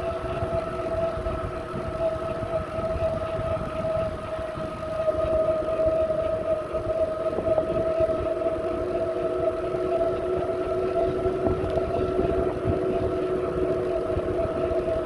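A steady whine that wavers slightly in pitch, over low rumbling noise from wind and the ride, a little louder from about five seconds in.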